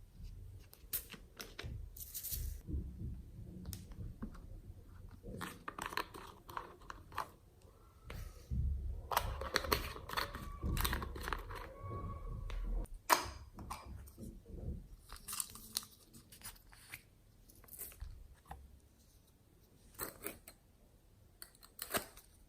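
Hands mixing and kneading slime: irregular wet clicks, crackles and squishes as it is pressed, folded and stretched, busiest around the middle.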